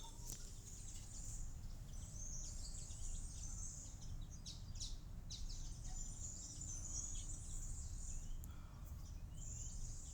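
Small garden birds chirping and twittering, many short high calls close together, over a low steady background rumble.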